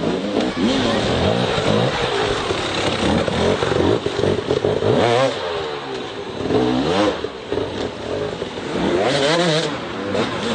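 Motocross bike engines revving, their pitch climbing and falling again and again as the riders accelerate and back off, with a sharp rise about five seconds in and again near seven and nine seconds.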